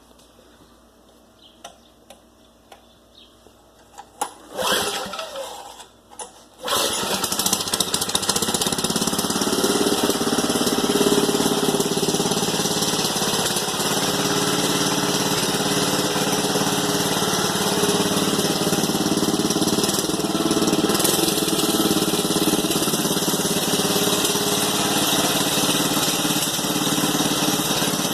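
Manco Thunderbird mini bike's small single-cylinder engine being started: a few light clicks, a brief starting attempt about four and a half seconds in, then it catches a couple of seconds later and keeps running steadily. The clutch is a little loud.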